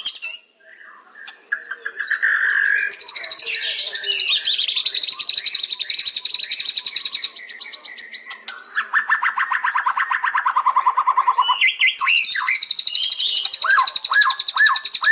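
White-rumped shama (murai batu) singing: long, rapid, high-pitched trills, with a lower trill in the middle and a run of quick downward-swooping whistles near the end.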